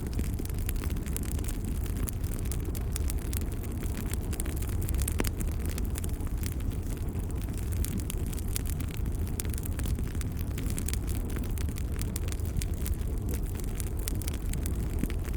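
Log fire burning in a fireplace: a steady low rumble with frequent small crackles and pops.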